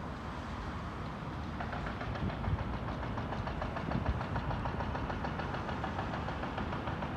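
Excavator engine running, joined about a second and a half in by the fast, even hammering of a hydraulic breaker drilling into thick concrete.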